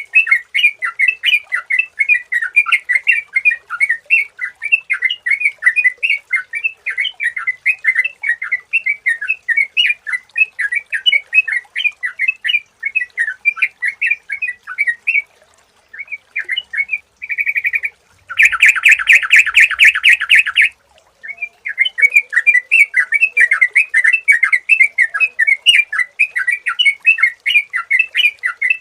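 Sooty-headed bulbul (trucukan) calling in fast, clear repeated chirps, several a second. About halfway the chirping breaks off for a moment, then a harsh, buzzy rattle lasts about two seconds, and the chirping starts again.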